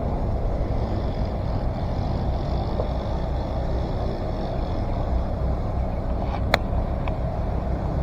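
Steady low rumble with no clear engine tone, and a single sharp, ringing metallic clink about six and a half seconds in, followed by a fainter tick.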